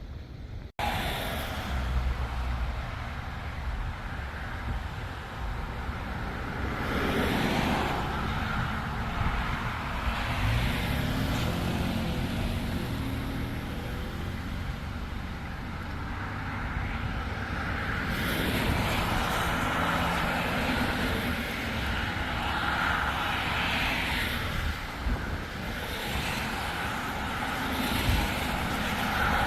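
Steady storm wind rumbling across the microphone, with a vehicle going by about ten seconds in.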